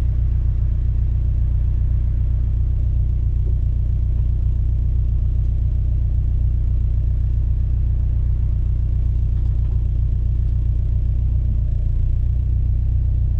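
Subaru STI's turbocharged flat-four engine running at a steady pace, a constant low drone heard from inside the car.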